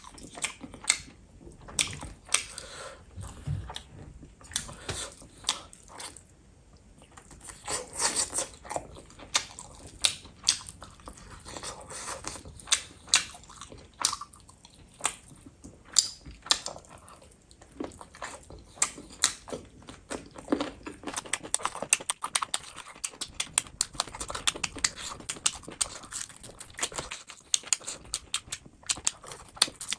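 Wet chewing and lip-smacking of a person eating chicken drumstick meat and gravy-soaked rice, a run of many quick, irregular smacks and clicks with a brief lull about six seconds in.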